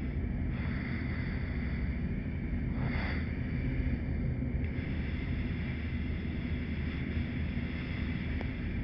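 T-6A Texan II's PT6A turboprop engine running at idle, a steady drone heard inside the cockpit, with a brief hiss about three seconds in.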